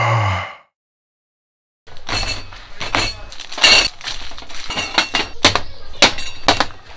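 A falling tone fades out in the first half second, then after a second of silence a run of sharp clinks and clatters, like dishes, glassware and cutlery being handled.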